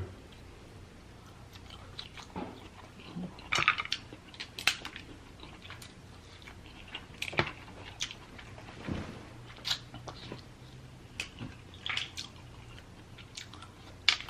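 Close eating sounds from a seafood boil of snow crab legs: chewing and biting, with irregular short, sharp clicks and smacks scattered through.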